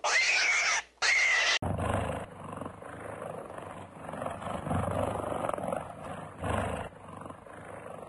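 Animal calls: a few short, high-pitched cries in the first second and a half, then a cut to a larger animal's low, rough calls of uneven loudness.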